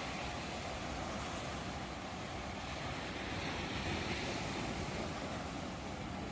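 Ocean waves breaking and washing on the shore, a steady rushing surf.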